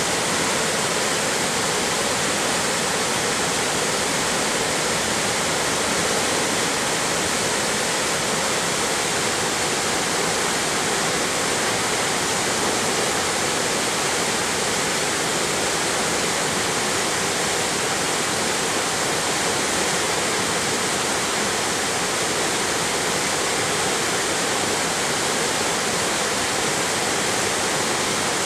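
Steady, unbroken rush of falling and flowing water from a waterfall and mountain stream.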